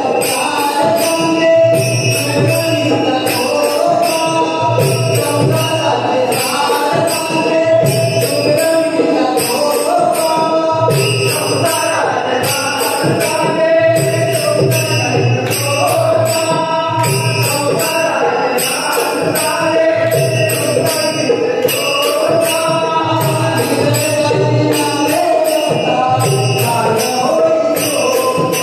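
Marathi devotional bhajan (abhang): singing voices in a chant-like melody over a steady jingling beat of small hand cymbals.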